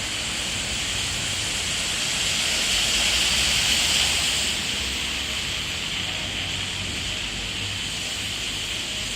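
Steady rushing hiss of rain and water on a flooded road, swelling louder about three to four seconds in and then easing back.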